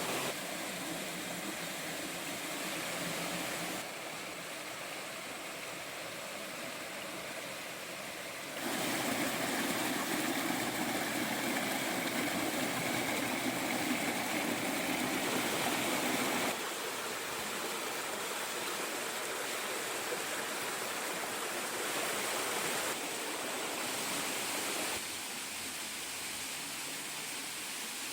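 Steady rushing of a small waterfall with a light flow of water. The loudness and tone of the rush jump abruptly several times.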